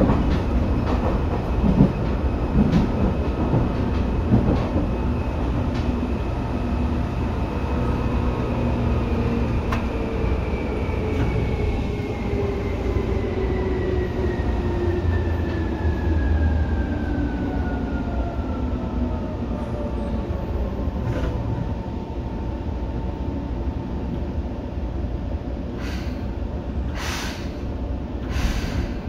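Seibu 2000 series electric train running, with steady wheel and motor rumble and a whine that falls slowly in pitch over about ten seconds as the train slows. A few sharp clicks come near the end.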